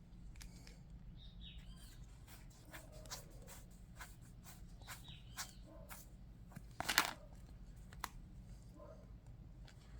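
Trading cards being handled, with faint scattered clicks and rustles and one louder rustle about seven seconds in, as a card is slipped into a plastic sleeve.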